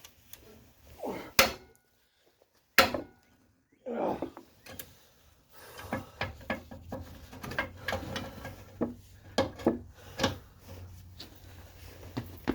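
Irregular metallic knocks, clicks and scrapes of hand tools being worked against a seized front suspension bolt on a Kia Sportage, with two sharp clanks in the first few seconds.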